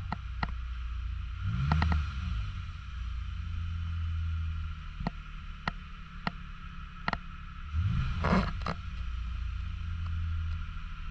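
The 3.5-litre V6 engine of a 2019 Lexus RX350L running, with a steady low hum and hiss; its pitch rises briefly about two seconds in and again about eight seconds in, and a few sharp clicks are heard.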